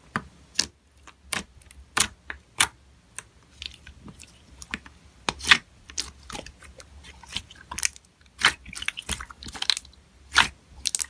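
Slime being worked by hand, giving irregular sharp pops and clicks with quieter squishing between them.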